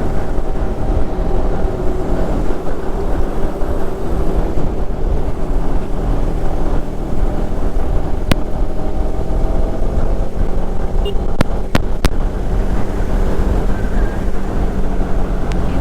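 Bajaj Pulsar motorcycle's engine running steadily at highway speed, under heavy wind rumble on a helmet-mounted action-camera microphone. A few sharp clicks come in the second half.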